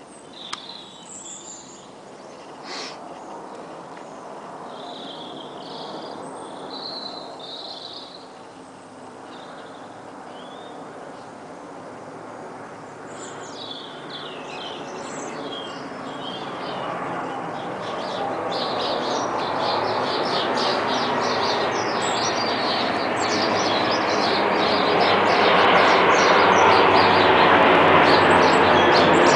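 Jet noise from a descending Boeing 777-236ER airliner, a broad rush that swells steadily as the plane approaches and is loudest near the end. Songbirds chirp over it, plainest in the first several seconds.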